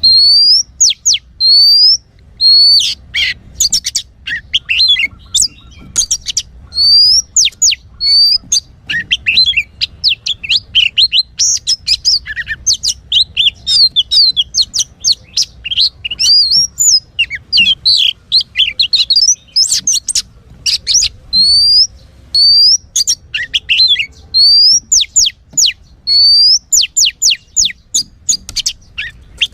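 Oriental magpie-robin (kacer) singing a loud, fast, varied song of whistles and chirps, with a rising whistled note that recurs between the rapid runs.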